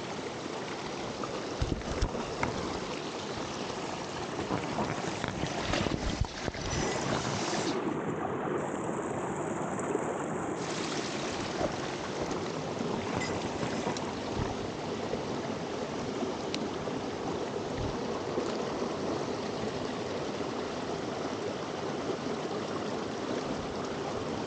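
Mountain stream water rushing steadily, with a few short knocks in the first several seconds.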